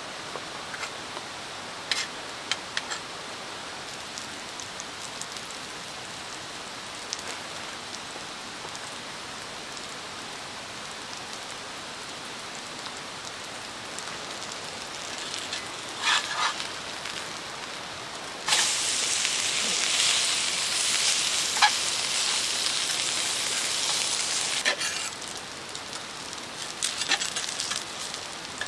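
Okonomiyaki frying in a pan over a wood fire: a steady low sizzle with scattered sharp crackles and pops. About two-thirds of the way through, just after the pancake is flipped onto its raw side, a much louder sizzle sets in for several seconds, then drops back.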